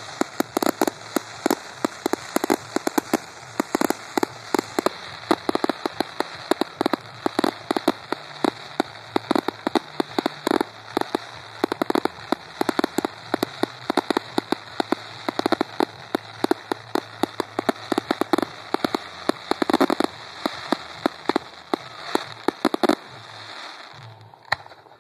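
Fireworks display going off in a rapid, dense string of bangs and crackling, several reports a second, that stops about 23 seconds in.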